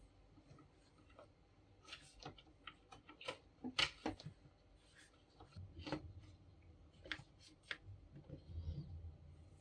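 Scattered small clicks, taps and rubbing from parts being handled, with the sharpest knock about four seconds in.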